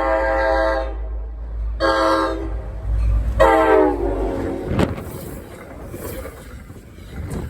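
Diesel locomotive air horn: a long blast ends about a second in, then a short blast and a last blast whose pitch drops as the train passes, the close of a grade-crossing horn signal. After it comes the engine rumble and the rattle of the passing train, with a couple of sharp clicks from the wheels on the rail joints.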